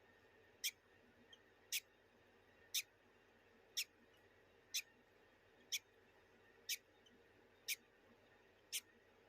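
Newly hatched lovebird chick peeping: short high-pitched cheeps repeated about once a second, evenly spaced.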